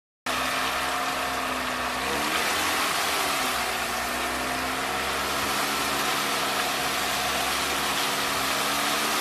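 Off-road vehicle engine running steadily, its pitch sliding down and back up about two to three seconds in as the revs change.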